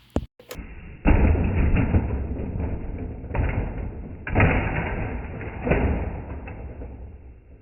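Muffled monster truck engine rumbling and revving in repeated surges, which fade toward the end.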